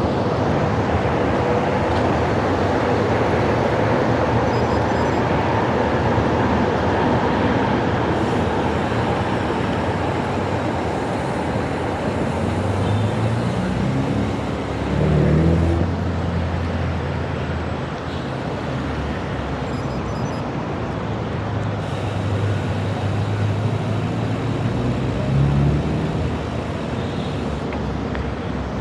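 Heavy road traffic: a steady wash of engines and tyres. About halfway through, a nearby vehicle's engine rises in pitch as it pulls away, and another engine runs low near the end.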